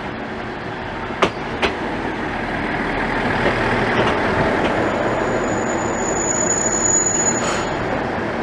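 A train running on rails, with two sharp clacks of the wheels just over a second in, growing louder as it comes on. A high-pitched wheel squeal rings out for a couple of seconds in the second half.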